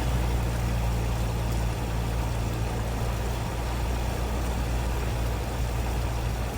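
Cessna 172R's four-cylinder Lycoming engine running steadily at 1800 rpm during the pre-takeoff run-up, while the magnetos are checked one at a time; the pilot judges the magnetos good.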